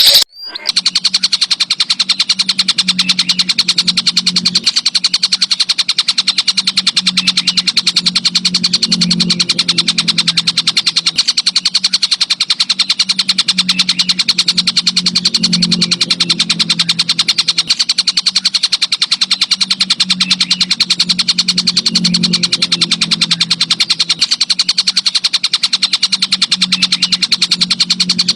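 An insect's continuous stridulating trill, a very fast, even train of pulses with a high ringing edge. Under it is a low hum that swells and fades every few seconds.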